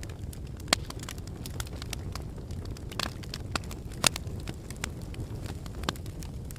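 Lava crackling and popping over a steady low rumble, with scattered sharp cracks, the loudest a little under a second in and about four seconds in.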